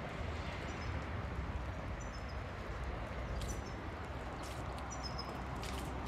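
A small songbird chirping repeatedly in short, high, falling three-note phrases, over a steady low outdoor rumble. A couple of sharp clicks come through, one about halfway in and one near the end.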